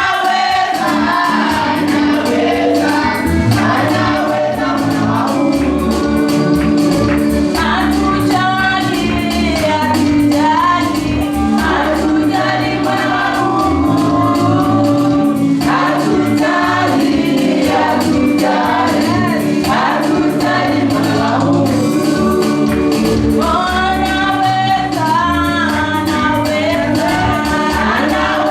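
Choir singing gospel worship music with instrumental accompaniment and a steady beat.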